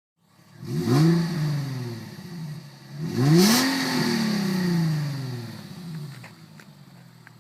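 2007 Infiniti G35 sedan's 3.5-litre V6 revved twice through its exhaust: the pitch climbs quickly about a second in and again about three seconds in, then falls back slowly toward idle each time.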